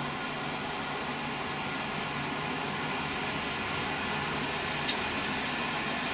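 Ausclimate Cool Seasons Premium 10L desiccant dehumidifier running steadily on its high setting, an even fan-and-air rush with a low hum. A single short click about five seconds in.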